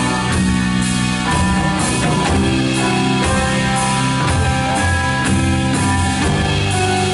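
Worship band playing without vocals: guitars over a drum kit keeping a steady beat.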